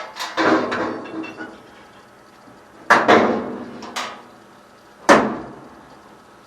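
Sheet-metal panels of a washer/dryer cabinet clanking as they are worked loose and handled: a handful of sharp knocks, each ringing briefly. The loudest come about three and five seconds in.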